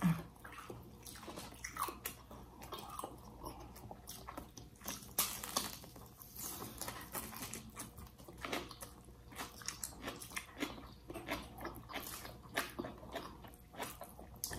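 Close-miked eating sounds of two people chewing baked fish and bok choy: irregular short wet clicks, smacks and crunches of chewing and biting.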